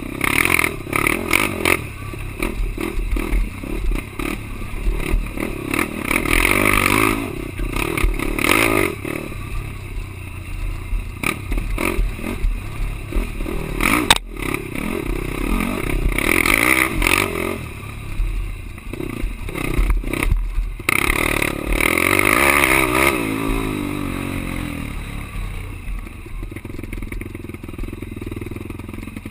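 Quad (ATV) engine revving up and down again and again under riding, with clattering and scraping from the machine over rough ground. A single sharp knock about halfway through, and the engine settles to a lower, steadier note near the end.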